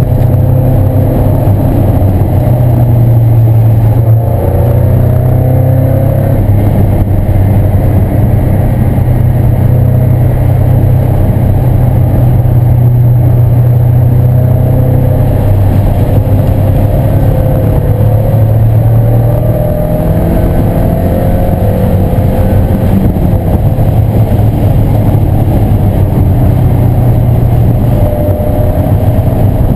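1997 Mazda Miata's 1.8-litre four-cylinder engine at full track pace, revs climbing and dropping repeatedly as it accelerates and shifts, under steady wind and road noise.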